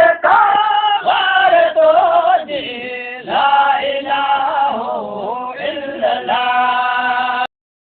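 Male voice chanting a Sindhi devotional mawlud, the sung lines sliding in pitch and settling on a long held note near the end. The recording cuts off abruptly just before the end.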